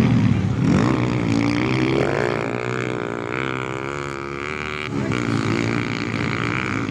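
Motocross dirt bike engines running and revving. The pitch rises and falls in the first couple of seconds, holds steadier through the middle, and swings again about five seconds in.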